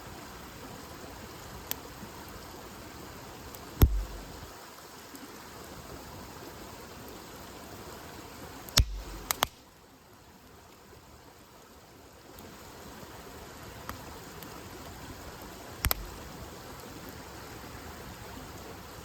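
Wood campfire burning with a steady hiss, broken by sharp crackles and pops from the burning wood. The loudest pops come about four, nine and sixteen seconds in.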